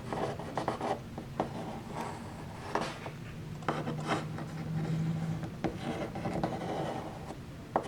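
Irregular rubbing and scraping with scattered light clicks: small model-making parts and glue being handled on a workbench.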